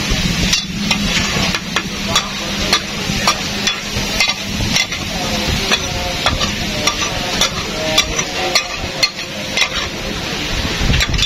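Brains frying in onion-tomato masala on a large flat tawa griddle: a steady sizzle, with a flat metal spatula scraping and clacking against the griddle many times at an irregular pace as the mixture is stirred.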